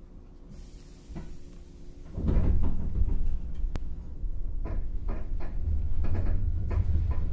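JR 115-series electric train (KuHa 115-552 trailer car) pulling out of a station, heard inside the car. Over a steady low hum there is a hiss, then about two seconds in a heavy clunk as the train starts to move. Low running rumble and irregular rattling clanks from the bogie follow as it picks up speed.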